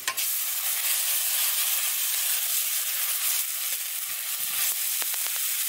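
Wet ground spice paste hitting hot oil in a kadhai and sizzling steadily, starting suddenly as it goes in. A few faint scrapes of a steel spoon stirring the paste come around the middle.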